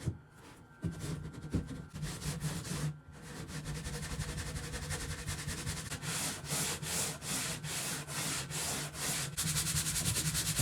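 Sanding cured body filler (bog) on fibreglass by hand or with a sanding block, in steady back-and-forth strokes about two to three a second, growing stronger a few seconds in.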